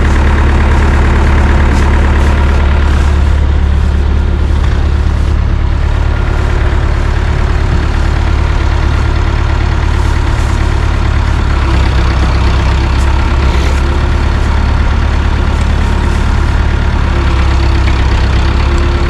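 A heavy vehicle's engine idling steadily and loudly, a constant low hum.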